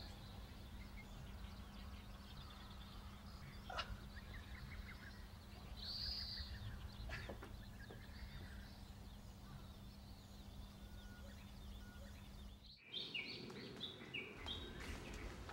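Faint outdoor ambience with bird calls: a single arched whistle about six seconds in, over a steady low hum. About thirteen seconds in the background changes abruptly, and a quick run of short, stepped high chirps follows.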